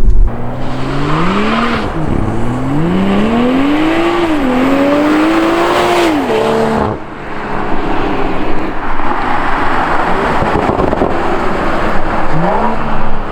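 Tuned BMW M340i's turbocharged B58 inline-six with M Performance exhaust accelerating hard: the engine pitch climbs through the revs, drops briefly at two upshifts, then the driver lifts off about seven seconds in. After several seconds of steady road noise, the engine starts revving up again near the end.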